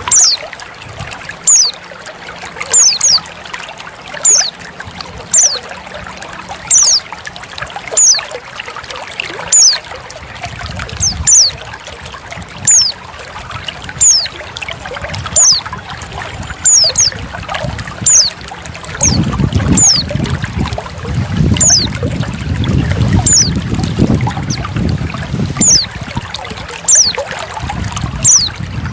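A female white-eye (pleci) calling: short, high notes that fall in pitch, repeated about every second and a half over trickling water. About two-thirds through, the water grows louder and fuller.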